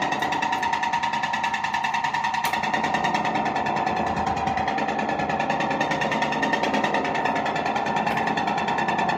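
Fender Deluxe Reverb guitar amplifier putting out a fast, steady ticking noise through its speaker, with a constant tone underneath: the unwanted ticking fault the amp has.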